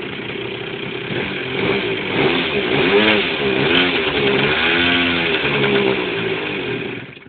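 Model aircraft engine running and revving up and down several times, then stopping near the end.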